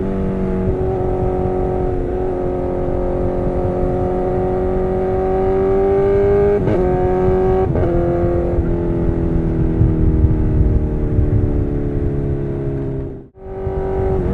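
Honda CBR1000RR's inline-four engine running at high revs. Its pitch climbs slowly and breaks off briefly a few times, and the sound cuts out for a moment near the end.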